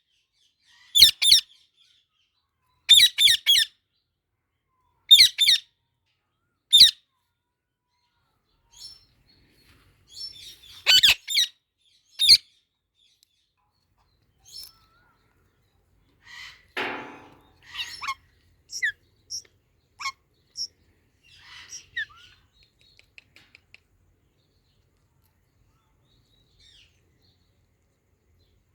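Indian ringneck parrots calling: clusters of short, loud, harsh calls through the first half, then softer chirps and chatter that die away in the last few seconds.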